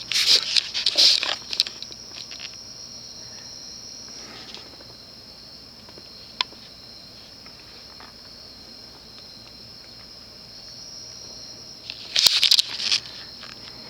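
Steady high-pitched insect trill. It fades for a while and then comes back strongly. Rustling, crackling bursts break in at the start and again near the end.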